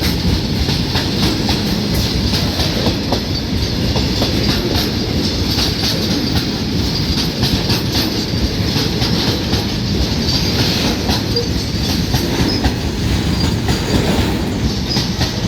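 Freight train of oil tank wagons rolling past, its wheels clicking steadily over rail joints, with a faint high wheel squeal now and then.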